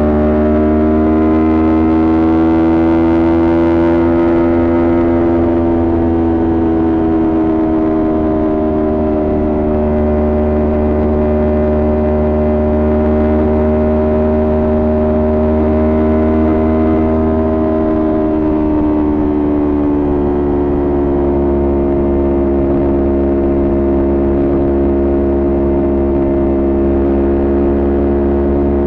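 Kawasaki Ninja 400's parallel-twin engine with a Coffman aftermarket exhaust, running steadily at a cruise. The pitch holds nearly level, a little higher near the start and easing down briefly about two-thirds of the way through.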